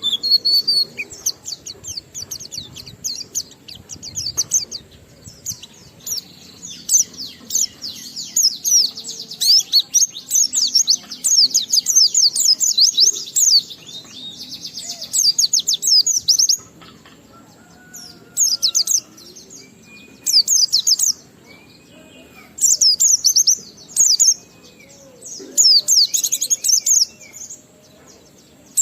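White-eye (pleci) singing a fast, high twittering song: a long unbroken run in the first half, then shorter bursts with brief pauses. This is the long, continuous 'ngalas' song of a bird in full voice, packed with learned imitations, used as a lure to set other white-eyes singing.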